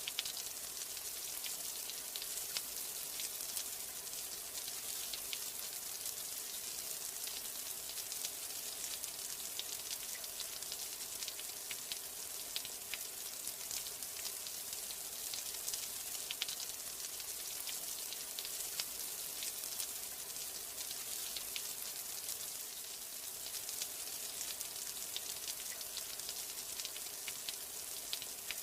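Steady rain falling: an even patter of many small, crisp drops.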